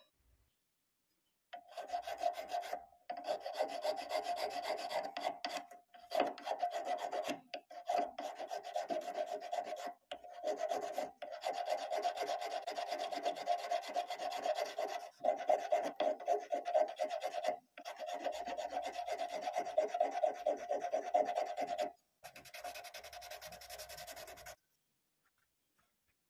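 Wood being abraded by hand in quick back-and-forth rubbing strokes, like a rasp or sandpaper working the surface. It comes in bursts of a few seconds with brief pauses between them, and stops near the end.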